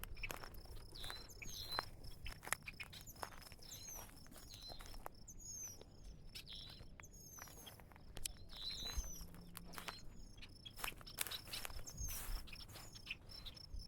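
Footsteps crunching through brush and grass, with small birds repeatedly giving short, high, falling chirps and a steady high insect trill, typical of crickets, behind them.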